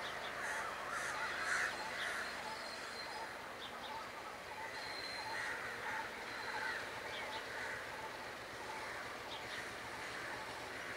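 Birds calling repeatedly with short, harsh, crow-like calls about once a second, over a steady background hum.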